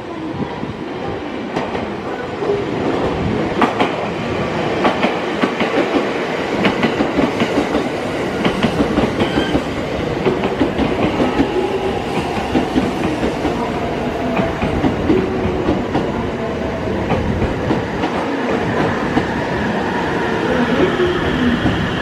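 A train running along the track, its wheels clacking sharply over rail joints in quick runs of clicks, with a steady rumble and a faint whine that shifts in pitch.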